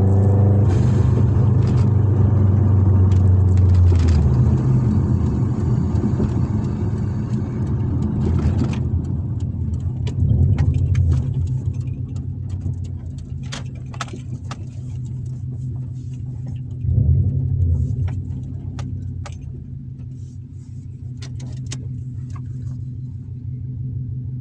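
Subaru Impreza WRX's turbocharged flat-four engine running on a cruise, with its boxer rumble. It pulls harder for about the first four seconds, then eases to a lighter, lower drone, swelling briefly twice more. Light clicks and rattles come through over it.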